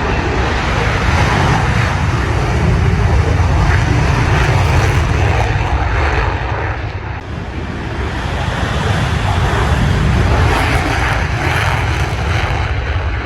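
F-35 Lightning II fighter jet taking off at full thrust, its single turbofan engine giving a loud, deep, continuous rumble and hiss. The noise dips briefly about seven seconds in and swells again.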